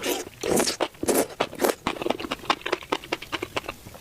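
Close-miked crunching and chewing of crisp deep-fried skewers: many short, sharp crackles, several a second, in an irregular run.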